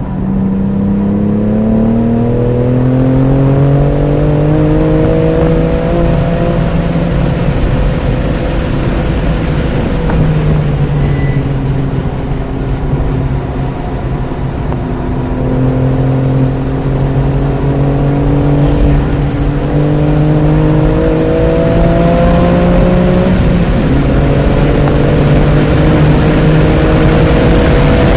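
BMW F80 M3 Competition's twin-turbo inline-six pulling hard on track, its pitch climbing under acceleration. It eases off and falls about ten seconds in, climbs again, dips briefly near the end and rises once more, with road and wind noise underneath.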